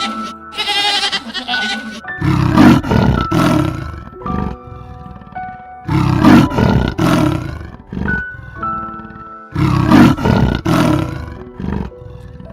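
A goat bleats in the first two seconds, then a big cat gives three loud roars about four seconds apart, each lasting about a second and a half, over light background music.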